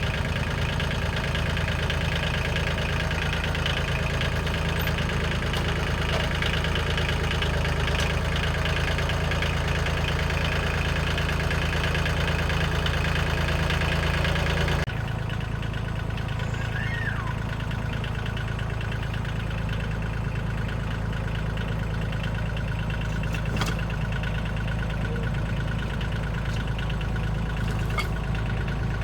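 An engine idling steadily. About halfway through, its sound changes abruptly and it runs on a little quieter and lower.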